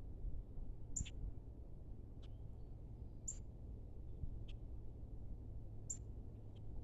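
A small bird's short, very high-pitched call note, given three times a couple of seconds apart, with fainter chips in between, over a low steady background rumble.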